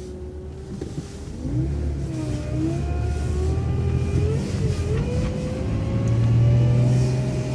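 City bus pulling away and accelerating: a low engine rumble that swells about a second and a half in, under a whine that climbs in pitch, dips briefly about halfway, then climbs again.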